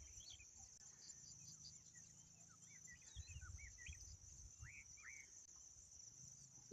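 Faint evening insect chorus: crickets trilling as one steady high buzz, with scattered short bird chirps, most of them in the middle. A faint low rumble sits underneath.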